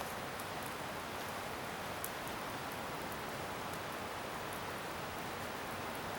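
Wood bonfire burning with a steady hiss and a few sharp crackling pops, one right at the start and another about two seconds in.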